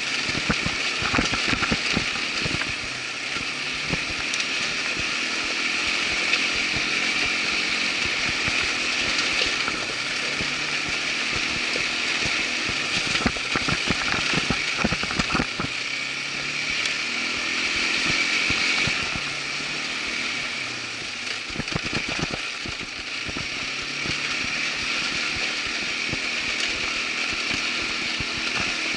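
Irbis ATV 200 quad bike engine running steadily under way, with scattered bursts of knocks and rattles from the machine jolting along a rough trail.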